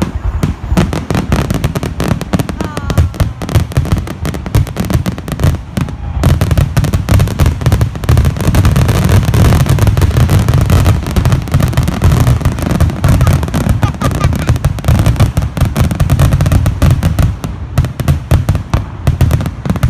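Fireworks going off in a rapid, continuous barrage of bangs and crackling, densest in the middle. It sounds like a finale, with a couple of short whistling glides early on.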